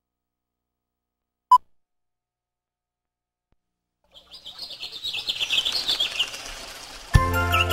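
A single short beep about a second and a half in, typical of a film countdown leader. Then, after a pause, birds chirping and twittering in quick high trills fade in, and music begins near the end.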